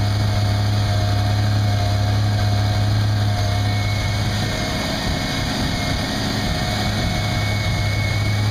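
1992 Chevy Camaro RS's 3.1 V6 idling steadily, still cold, shortly after a hard cold start.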